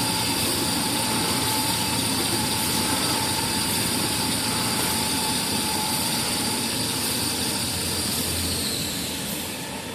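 Kitchen towel paper making machine running steadily with a high whine over a steady mechanical din. About nine seconds in, the whine drops in pitch and fades as the machine slows.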